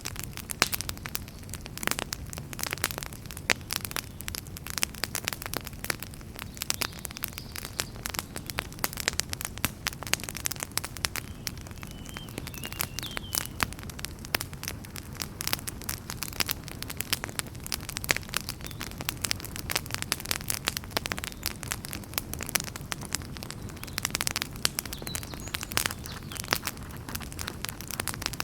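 Wood fire burning in a fireplace, crackling and popping irregularly over a steady low rumble of flame.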